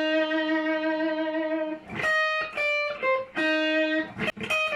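Guitar improvised freely, single notes at a time: one long sustained note held for nearly two seconds, then a run of shorter notes that drifts toward a pentatonic sound.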